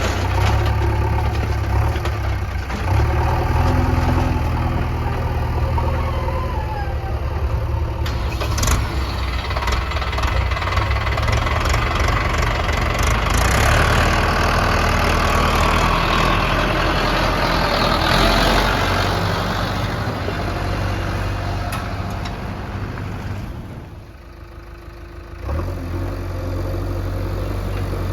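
Diesel engines of a backhoe loader and farm tractors running steadily at work, with a harsher rushing noise swelling in the middle and a brief drop in level near the end.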